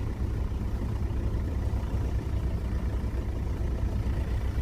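A vehicle's engine and tyres giving a steady low rumble as it drives along a dry riverbed.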